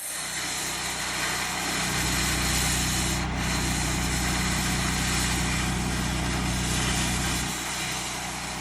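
A welding arc hisses and crackles steadily, over a low, even machine hum that drops away near the end.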